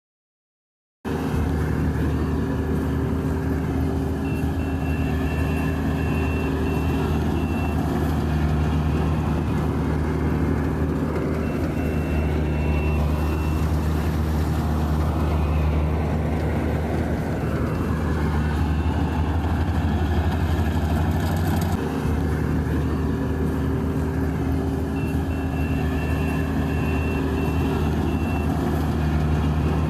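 Rice combine harvester running steadily under load, its engine drone starting abruptly about a second in. A faint high beeping pulses in several stretches over the engine.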